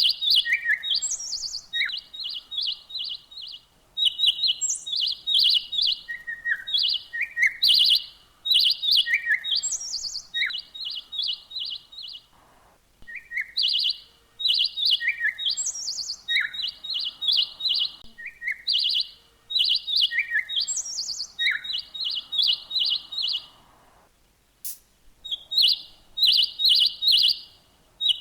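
A songbird chirping in quick runs of short, high notes, in phrases a few seconds long with brief pauses between them.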